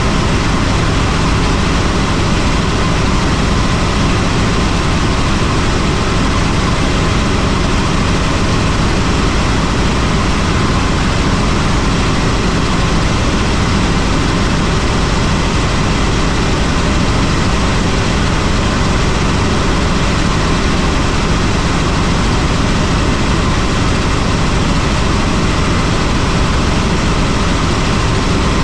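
Helicopter running steadily: a loud, unbroken drone of engine and rotor noise that does not change.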